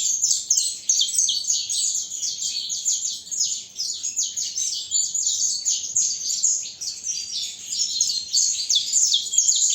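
Young cinnamon-mutation songbird singing, a long unbroken run of fast, high chirps and trills.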